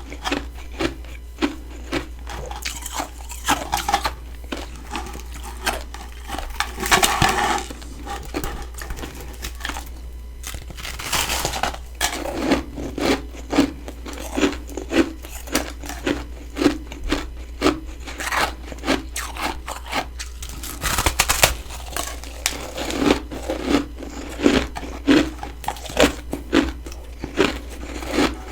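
Close-miked chewing of freezer frost: rhythmic crunching about twice a second, broken by a few longer, louder crunching bites.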